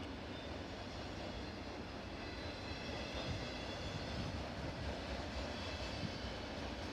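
Freight train rolling past: a steady rumble of wheels on the rails.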